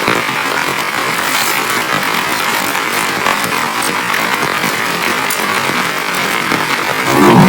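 Heavy rain falling steadily, with many individual drops striking close by. About seven seconds in there is a brief louder sound.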